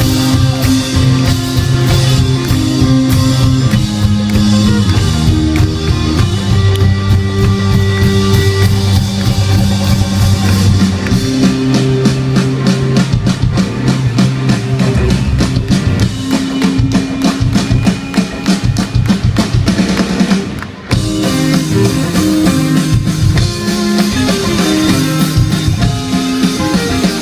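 Live rock band playing an instrumental passage of the song, with drum kit, guitar and bass. The band breaks off for a moment about three quarters of the way through, then comes back in.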